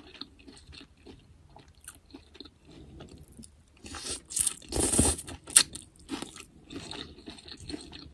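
Close-miked chewing of food, with soft wet clicks throughout and a louder stretch of crunching about four to five and a half seconds in.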